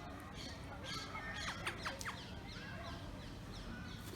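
Birds chirping: a run of quick, high chirps that each fall in pitch, thickest about halfway through, over a low background rumble.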